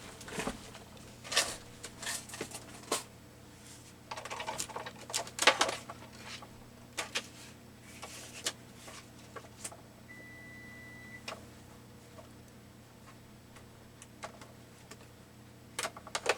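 Craft materials being handled at a work table while a die cut is set up: scattered clicks, taps and paper rustles, with a short faint high beep about ten seconds in.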